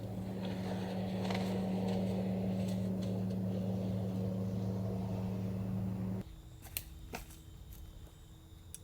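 A steady machine hum, a motor running, that cuts off suddenly about six seconds in. A few faint clicks follow.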